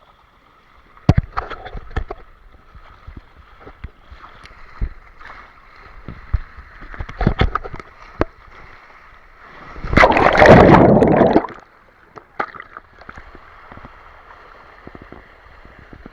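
Water sloshing and gurgling with scattered knocks, then a loud rushing splash lasting about a second and a half, some ten seconds in.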